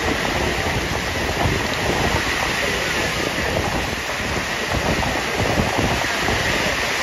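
Heavy rain falling in a steady hiss, with gusty wind buffeting the microphone as a low rumble.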